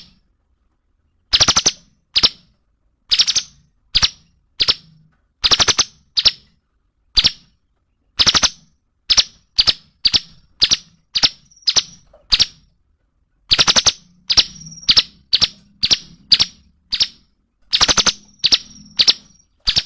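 Cungkok bird calling loudly in sharp, short notes, some single and some in quick clicky runs, roughly one or two a second after a pause of over a second at the start.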